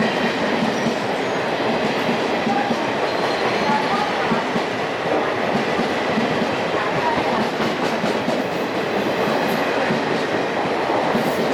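Passenger coaches of an Indian Railways express train passing at speed close by: a steady, unbroken noise of steel wheels running on the rails.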